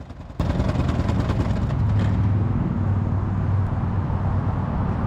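A motor vehicle driving: steady engine hum with road noise, cutting in suddenly about half a second in.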